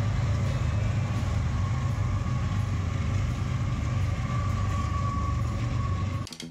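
BNSF freight train's diesel locomotives going by with a steady deep rumble and a faint high whine. The sound cuts off suddenly near the end.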